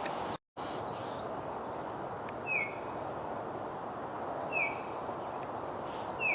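Wild songbird calling: a quick run of high sliding notes just after the start, then single short downward-slurred notes about every two seconds. Steady outdoor background noise lies under the calls.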